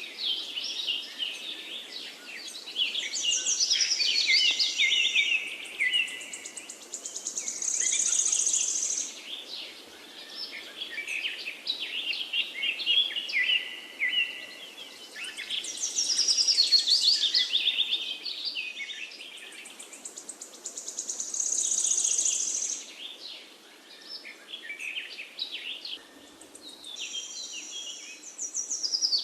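Several songbirds singing and chirping over one another, with rapid trills and high twittering, over a faint steady hiss. The same phrases come back about every 14 seconds, as in a looped recording.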